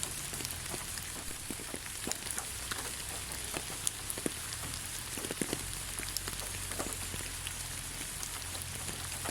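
Steady rain falling on the ground: an even hiss with many individual drops ticking here and there.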